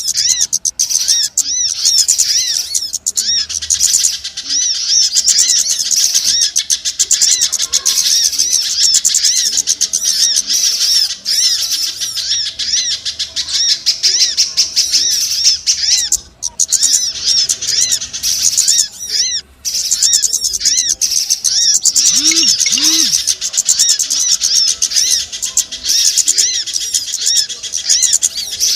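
Bird-lure recording of a dense chorus of small songbirds: many rapid, high, repeated chirps overlapping without pause. Two short low cooing notes come through about 22 seconds in.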